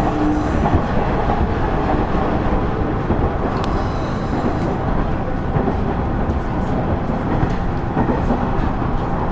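KiHa 110 series (KiHa 112) diesel railcar under way: a steady rumble of the engine and of the wheels on the rails, with a few faint clicks.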